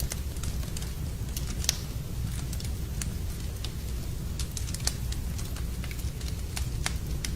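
Wood fire burning in a fireplace, crackling with sharp, irregular pops over a steady low rumble; the loudest pop comes a little under two seconds in.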